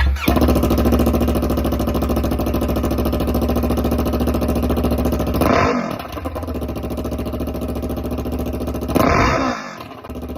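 Yamaha MT-03 motorcycle engine with an aftermarket KO Lightning exhaust idling, blipped twice with short revs about five and a half and nine seconds in, settling back to idle each time.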